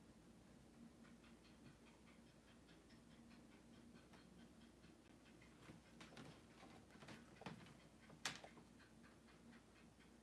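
Near silence: a faint steady hum with scattered soft ticks and clicks, the sharpest about eight seconds in.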